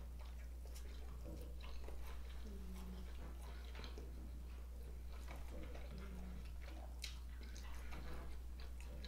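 Faint close-up chewing of a bite of chipotle vegan sausage: soft wet mouth clicks and crackles, with two short low 'mm' sounds, over a steady low hum.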